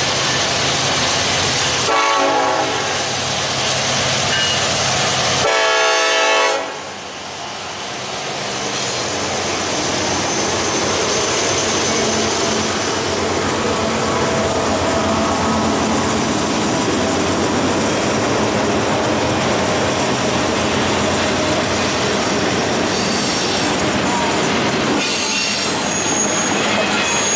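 Norfolk Southern diesel freight train passing close by: the locomotives sound two horn blasts a few seconds apart as they approach. Then the double-stack container cars roll past with a steady rumble and wheel clatter, and a brief high wheel squeal near the end.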